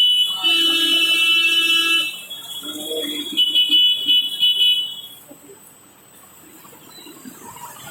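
Loud, high-pitched electronic alarm-like tones, held for about two seconds, then sounding again for a second and a half after a short break, and fading out about five seconds in.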